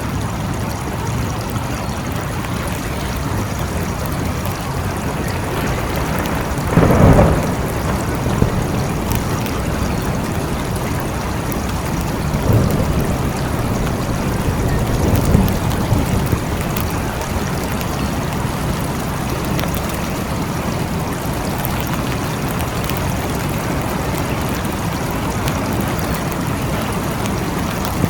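Steady heavy rain falling, with a louder clap of thunder about a quarter of the way in and two fainter rumbles of thunder around the middle.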